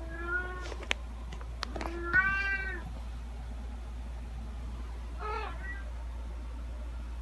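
Domestic cat meowing three times, the second meow the loudest and longest, with two sharp clicks between the first two calls, over a low steady hum.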